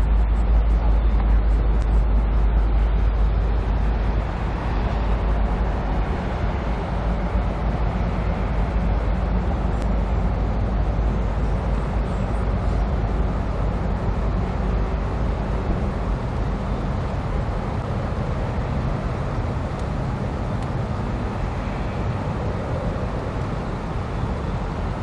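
Steady rumble and rushing noise of a moving vehicle, heaviest in the lowest range for the first four seconds, then easing slightly.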